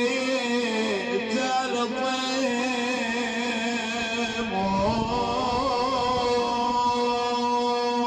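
A man chanting a mournful Husseini elegy in long, wavering melismatic lines without clear words, over a steady held drone.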